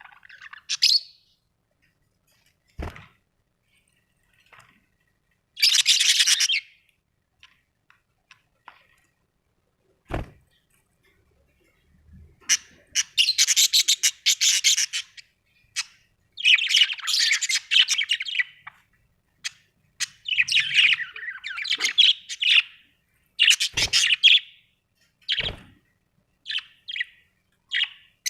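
Budgerigars chirping and chattering in irregular bursts, sparse at first and near-continuous from about halfway, with a few sharp taps or knocks among them.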